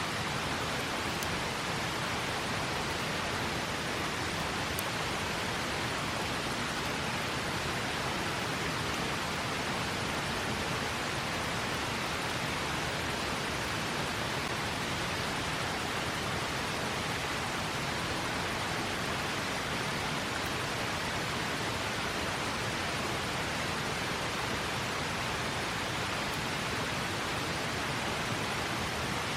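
River water rushing steadily, an even unbroken hiss of flowing water.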